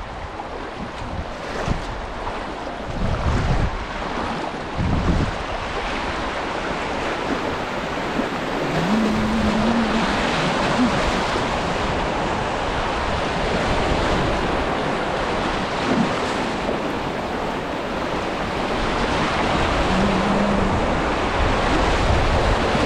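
Creek water rushing steadily around a kayak, growing louder about a third of the way in, with wind buffeting the microphone in the first few seconds.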